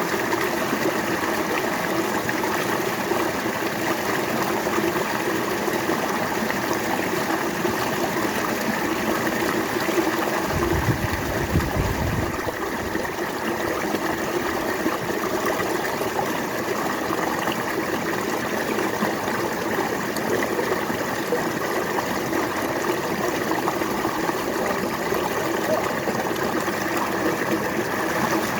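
River water flowing steadily, an even rushing. A brief low rumble comes in about ten seconds in and lasts around two seconds.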